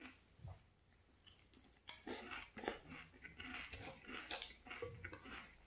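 Close-up crunching and chewing of a mouthful of Frosted Flakes cereal in milk. The crunching is loudest for a few seconds in the middle, with quieter rhythmic chewing before and after.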